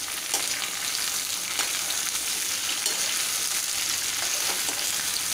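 Pumpkin cubes sizzling steadily in hot oil in a kadhai, stirred with a metal spatula that scrapes and taps against the pan now and then. The pumpkin is being sautéd in the oil with fried onions.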